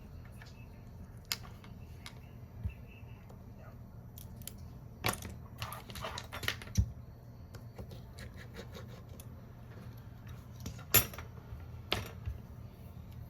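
Small metal repair tools and phone parts clicking and tapping on a workbench: a scattering of sharp clicks, the loudest about eleven seconds in, over a steady low hum.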